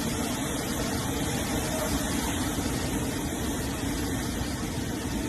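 Steady rushing noise of hurricane wind and storm water, with no distinct events.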